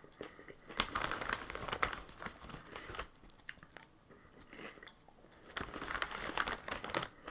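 Crunchy Cheetos cheddar popcorn being chewed close to the microphone, in two spells of crunching, about a second in and again from about five and a half seconds, with the snack bag crinkling as a hand reaches into it.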